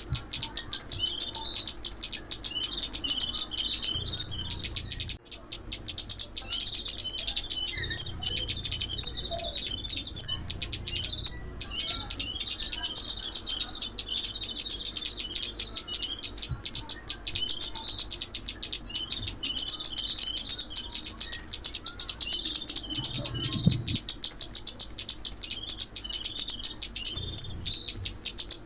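Recorded calls of the small songbird known in Vietnamese as chim ốc mít, played as a trapping lure: continuous fast, high-pitched chirping and twittering in quick runs with short gaps.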